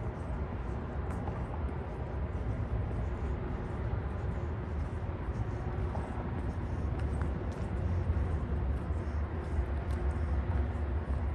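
Outdoor urban ambience: a steady low rumble with faint light ticks over it.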